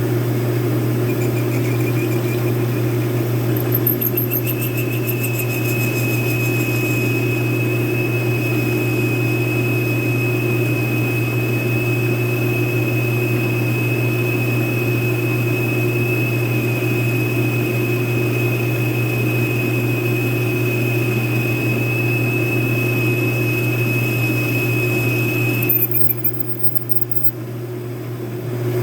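Metal lathe running with a steady hum while the cutting tool machines out the hub of a steel shell mill. A high, steady squeal from the cut starts a few seconds in and stops shortly before the end; the lathe keeps humming after it stops.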